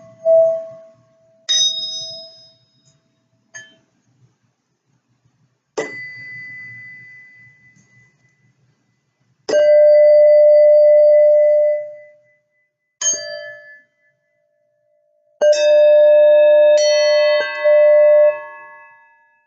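A slow series of struck, bell-like tones, about five strikes spaced a few seconds apart, each ringing on and fading. The last strikes come close together and layer several pitches into a ringing chord near the end. The strongest tones are a mid-pitched ring held for a couple of seconds before dying away.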